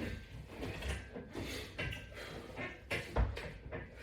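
Knocks and scuffing from a person doing sit-ups and crunches with straps, with one heavier thump about three seconds in.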